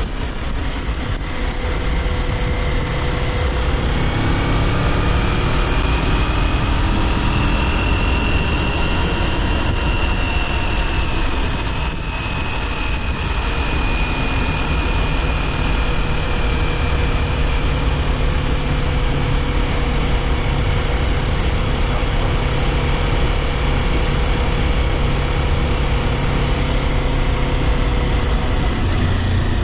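Kawasaki Ninja 400's parallel-twin engine running while riding, with wind and road rush. The engine note rises over the first several seconds, dips briefly about twelve seconds in, then holds steady at cruising speed.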